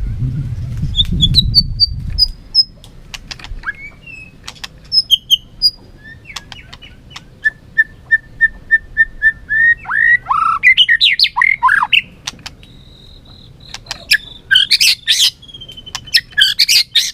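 White-rumped shama singing a varied song of clear whistles, rising slurs and sharp clicks, including a run of evenly spaced notes, about four a second, in the middle. A low rumble fades out in the first two seconds.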